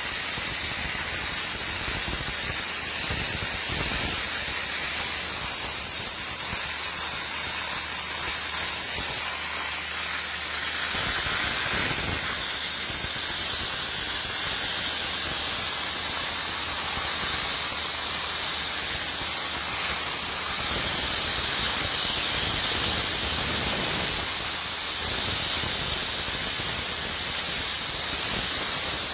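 Dry ice blasting gun running, a steady loud hiss of compressed air and dry ice pellets. It is stripping the original foam from the window and door areas of the car body. The hiss shifts slightly in tone now and then as the nozzle moves.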